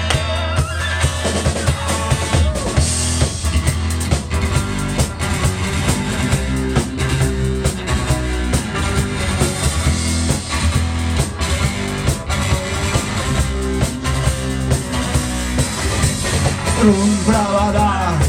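Rock band playing live: a drum kit keeps a steady beat over bass and guitar, and a voice starts singing near the end.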